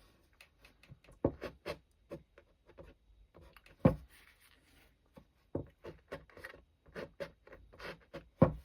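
Short, irregular scraping strokes of a painting scraper across wet watercolour paper, lifting paint out for rock texture, with a louder knock about four seconds in.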